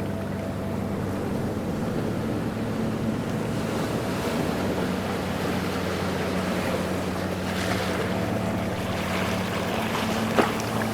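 Ocean waves washing steadily, with a steady low hum underneath. A single sharp knock sounds near the end.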